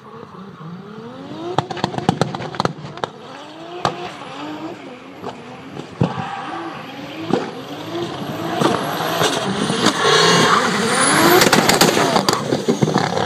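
Toyota 2JZ straight-six in a Nissan Silvia drift car, revved hard again and again so its pitch climbs and falls, with sharp pops in the first few seconds. From about eight seconds in, a dense rushing noise of spinning, smoking tyres builds over the engine and is loudest near the end.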